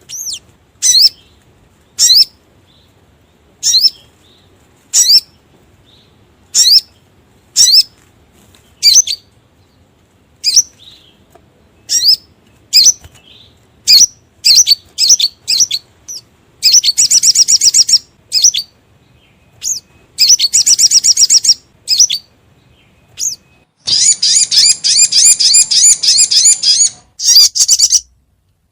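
Sogon (sogok ontong) bird calling: sharp, high single chirps about once a second, coming quicker midway, then breaking into rapid chattering trills, the longest lasting about three seconds near the end.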